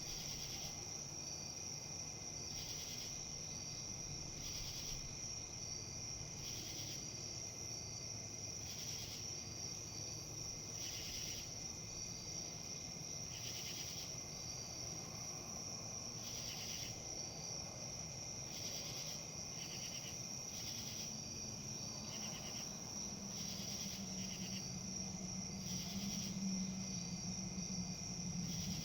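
Insects trilling steadily in a high tone, with pulsed chirps every second or two, over a low rustle of wind in leaves. A low hum comes in about two thirds of the way through.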